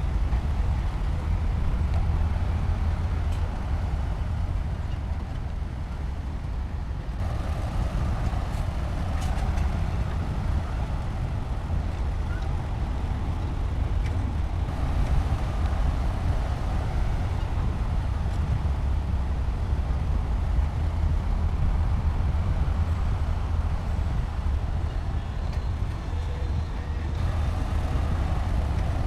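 Heavy earthmoving machine's diesel engine running with a steady low rumble.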